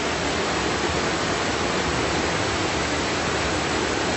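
Waterfall rushing steadily, heard from close by at its top.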